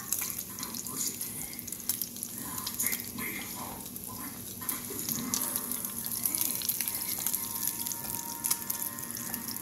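Slices of Spam sizzling and crackling in hot olive oil in a frying pan, with a plastic spatula nudging them now and then.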